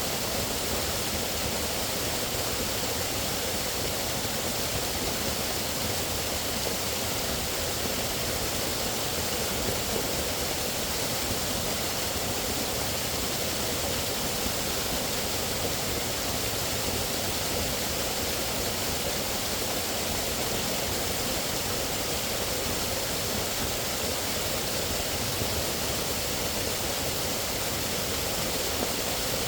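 Steady rushing of flowing water, an even wash of sound with no distinct events.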